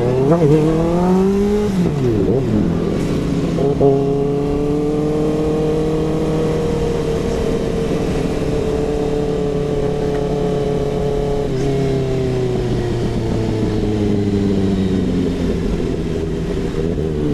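Kawasaki ZX-6R inline-four through an SC Project CRT exhaust. It starts with a couple of quick revs, then holds a steady high note for several seconds. About eleven seconds in the note steps, then sags slowly, and there are quick revs again near the end.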